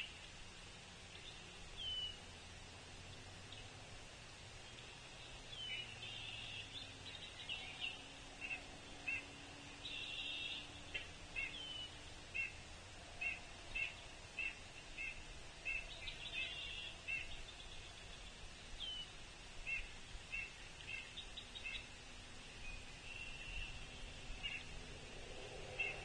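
Birds calling: a string of short, sharp call notes repeated about once or twice a second, broken by several harsh buzzy calls about a second long and a few brief slurred whistles.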